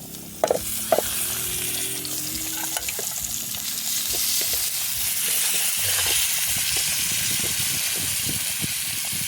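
Vegetables sizzling as they fry in hot oil in a pan, a steady hiss, with two sharp knocks in the first second as they go in.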